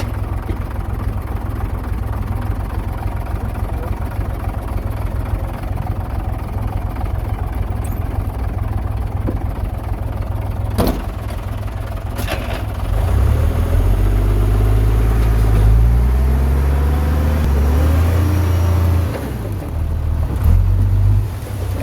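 Heavy earthmoving machinery's diesel engine running with a steady deep rumble. Two sharp knocks come about 11 and 12 seconds in. From about 13 seconds it gets louder, its pitch shifting up and down as it works, then eases near the end.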